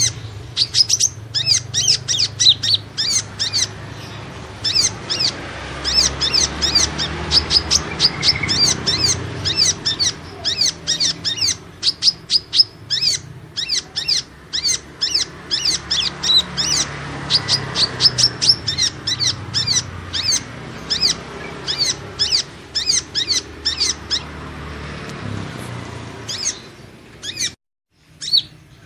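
Kolibri ninja sunbird song used as a lure call: a fast, unbroken stream of short, high, thin chirps, several a second, with a faint low hum underneath. It breaks off for a moment near the end, then resumes.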